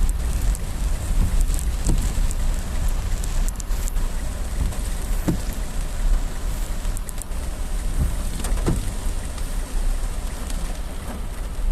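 Heavy rain pouring steadily, with a low rumble underneath and a few louder individual drop hits or knocks scattered through.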